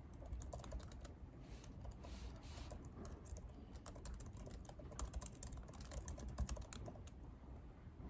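Typing on a computer keyboard: quick runs of keystroke clicks with short pauses between them, over a low steady room hum.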